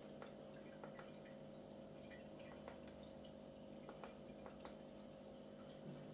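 Near silence: a faint steady hum with scattered small soft clicks and ticks throughout.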